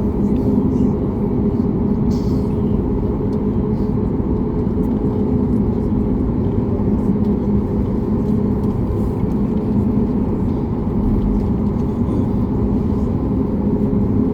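Steady cabin hum inside a Boeing 737 MAX 8 on the ground, a constant rumble with a few low steady tones running through it.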